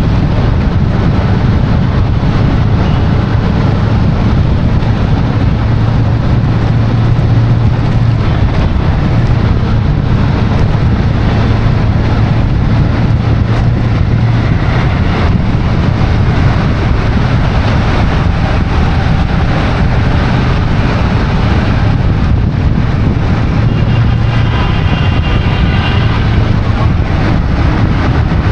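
Steady vehicle noise: a constant low engine hum with road and wind noise.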